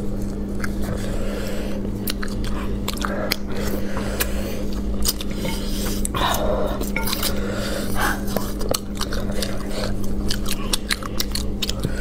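Close-up eating of spicy rabbit heads in chili oil: wet chewing, sucking and lip-smacking, with many quick sharp crunches and clicks as the meat is pulled and bitten off the small bones, over a steady low hum.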